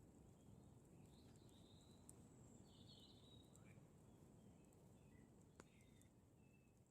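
Near silence: a faintly crackling campfire with scattered small pops and one sharper pop about five and a half seconds in, and a few faint bird chirps.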